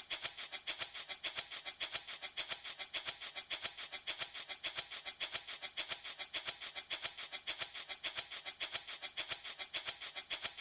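Handmade baby rattle shaken back and forth in a steady rhythm, about four to five shakes a second with strong and weak strokes alternating, its beads rattling with a bright, hissing sound.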